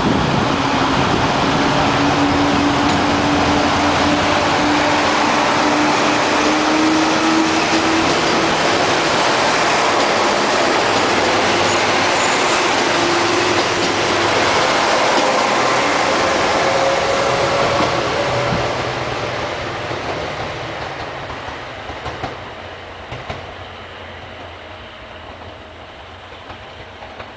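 KiHa 58 and KiHa 65 diesel railcar train accelerating away under power: the engines' note climbs steadily over the rumble and rail noise. About two-thirds of the way through, the sound starts to fade as the train draws off, with a few sharp wheel clicks in the fade.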